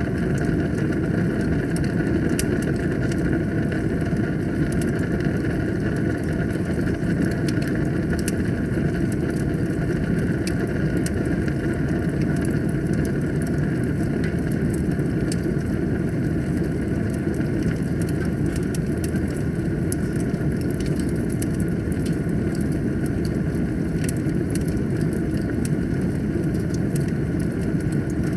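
Wood fire burning in a fireplace: a steady low roar of the flames with frequent small crackles and pops from the burning wood.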